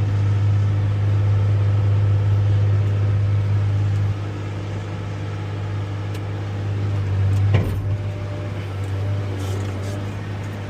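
Old wheel loader's diesel engine running, heard from inside its cab: a steady low drone that drops a little about four seconds in. A single brief knock comes about two thirds of the way through.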